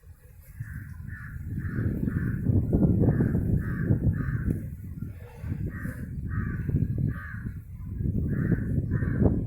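Crows cawing over and over, about two caws a second, over a loud, low, rising and falling rumble.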